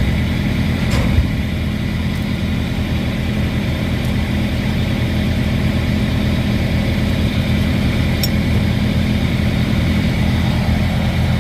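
Semi truck's diesel engine idling steadily, with a couple of faint small clicks over it.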